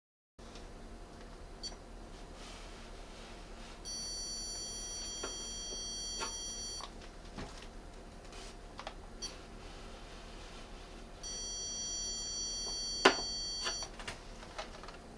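Zircon multi-detector (electronic stud finder) sounding two long, steady high-pitched beeps of about three seconds each, its signal that it has found a stud behind the wall. Light clicks and taps fall between them, with a sharp knock near the end of the second beep.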